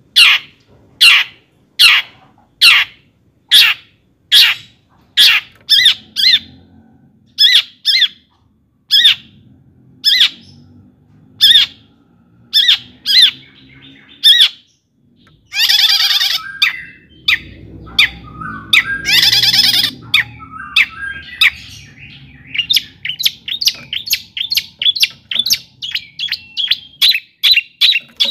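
Long-tailed shrike (cendet) singing: sharp, evenly spaced high notes a little more than one a second, two long harsh screeches around the middle, then a faster chattering run of notes near the end.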